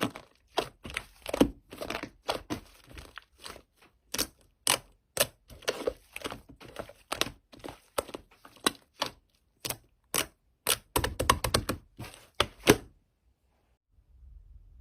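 Slime being pressed and poked, making a quick uneven series of sharp clicks and pops that stop near the end.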